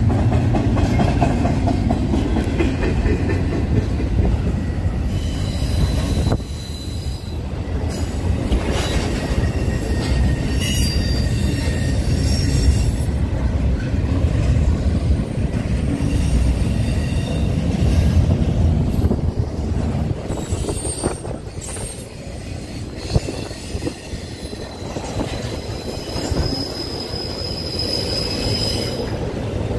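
A train rolling past: a steady low rumble of wheels on rail. A high-pitched wheel squeal comes and goes, plainest about a third of the way in and again near the end, with a few sharp clanks.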